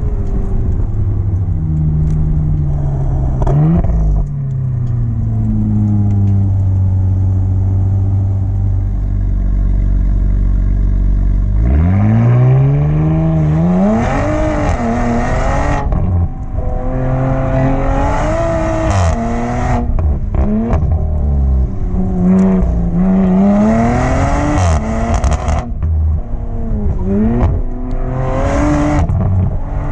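Audi TT race car's tuned engine driven hard: revs fall away to a low, steady stretch in the middle, then climb sharply about twelve seconds in and keep rising and dropping with the gear changes.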